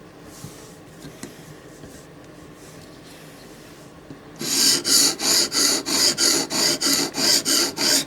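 Quiet for about four seconds with a couple of faint clicks, then a sharpening stone on a guided sharpening system starts rasping back and forth along the steel edge of a Microtech Combat Troodon tanto blade. The strokes are rapid and even, about three a second.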